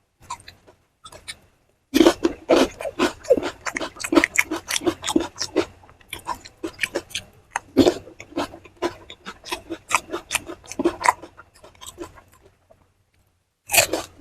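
Rapid, irregular crunching and chewing of food by someone eating, starting about two seconds in and running dense until near the end, with one louder crunch just before the end.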